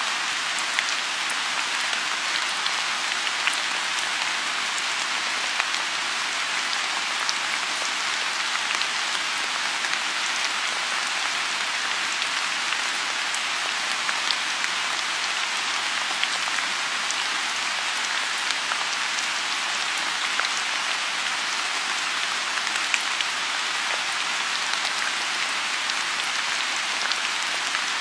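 Steady rain falling on a lotus pond: an even hiss with scattered individual drops tapping throughout.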